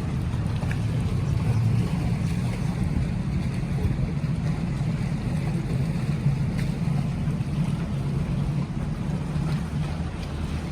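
Cruise boat's engine running steadily underway, a low drone under a constant rush of water and air noise.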